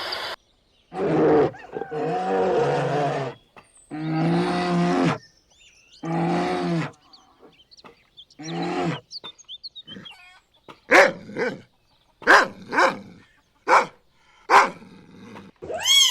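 A big cat roaring: about five long, rough, low calls. Then a dog barks about six times in quick, sharp barks.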